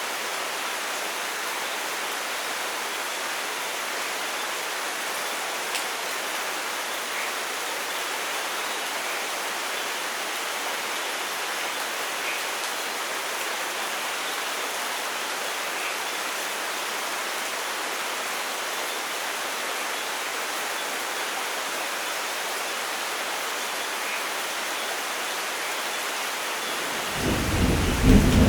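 Steady light rain falling. Near the end a deep thunder rumble begins and grows loud.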